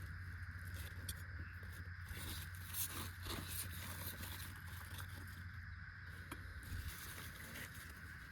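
Quiet outdoor ambience: a steady high hum and a low rumble, with scattered faint ticks and rustles.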